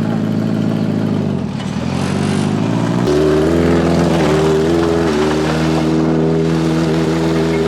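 Small racing engine running hard. It eases off about a second and a half in, then picks up again and holds a steady pitch from about three seconds in, with small shifts.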